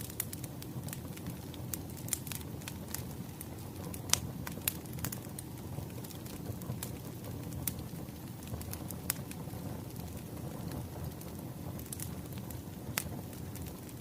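Wood fire crackling: a steady low rush with irregular sharp pops and snaps, the loudest pop about four seconds in.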